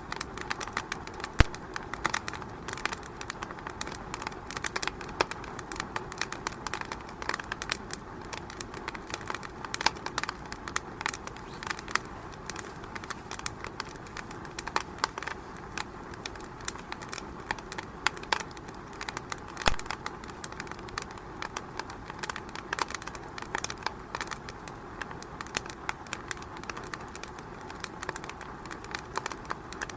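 Fire crackling in a fireplace: a steady hiss with dense small pops and snaps, and two louder pops, one about a second and a half in and one about twenty seconds in.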